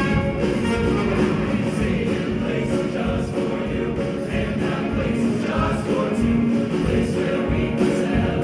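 School choir singing a Christmas piece with instrumental accompaniment, performed live.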